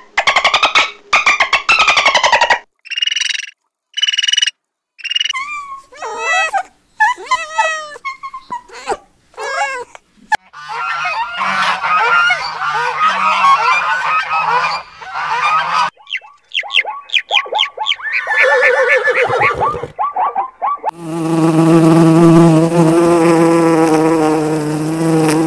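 A run of different animal and bird calls, one after another with short breaks, including honking calls like geese or ducks. It ends with a long, steady, low call held for several seconds.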